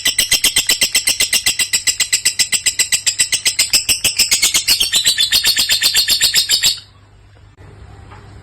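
Lovebird singing one long, unbroken string of rapid high chirps, about eight a second. This is the long-duration song prized in Indonesian lovebird song contests. It stops abruptly near the end.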